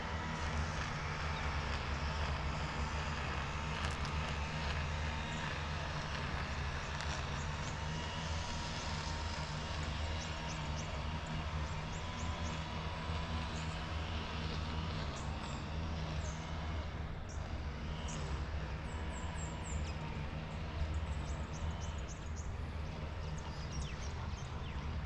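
Steady rushing and rumbling of a mountain bike ride: air moving over the microphone and tyres rolling. From the middle onward come many short, high chirps.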